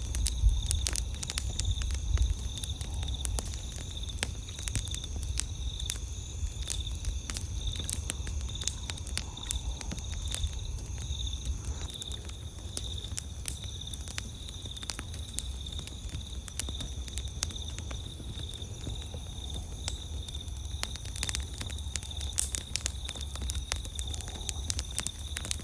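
Wood campfire crackling, with frequent sharp pops and snaps. Behind it, night insects keep up a steady high trill, over a low rumble.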